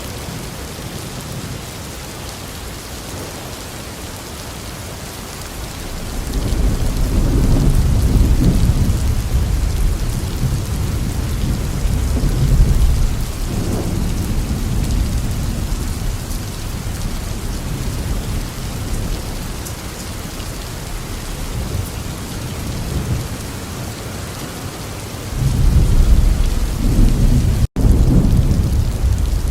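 Thunderstorm: steady rain falling, with deep rolling thunder that swells about six seconds in and rumbles on for several seconds, then a second rumble building near the end. The sound cuts out for a split second shortly before the end.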